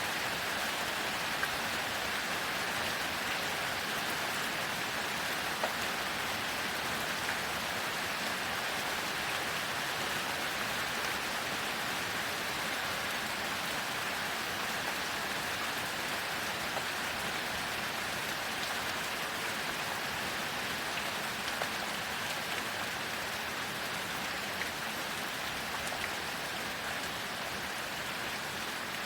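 Heavy rain falling steadily: an even hiss with scattered small drop taps.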